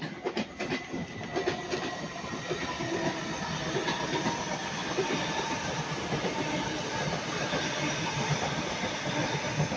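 Electric multiple-unit passenger train passing: a steady rush of wheels on rail with faint steady whining tones over it, and a few clicks from the wheels in the first second or two.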